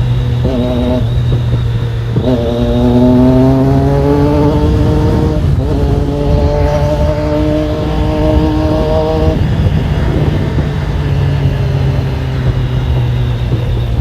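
Triumph Daytona 675R's inline-three engine through its aftermarket Torque exhaust, idling and being revved. A short rev comes about half a second in; from about 2 s a held rev climbs slowly for several seconds, then the engine drops back to idle near 9.5 s.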